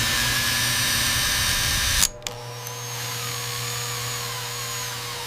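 A machine's motor running with a steady whir, cutting off abruptly about two seconds in and giving way to a quieter, steady machine hum with a thin high whine.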